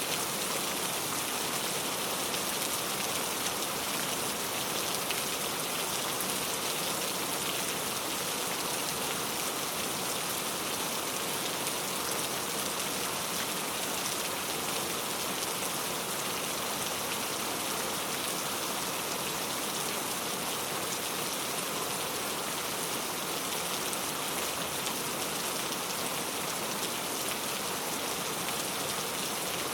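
Steady rain falling, a continuous hiss with fine pattering drops.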